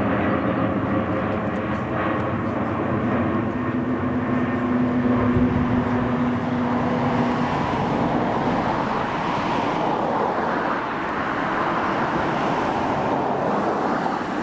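Aircraft engine drone, steady and loud, with a humming tone that fades out about halfway through.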